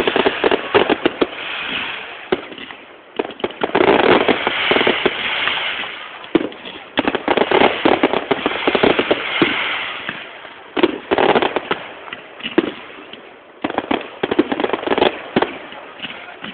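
Fireworks display: rapid crackling and popping bursts in dense volleys, with a steady crackling hiss between the louder cracks.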